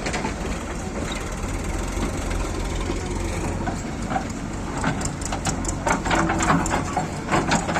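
Diesel engine of a JCB 3DX backhoe loader running steadily, with a run of sharp knocks and rattles in the second half.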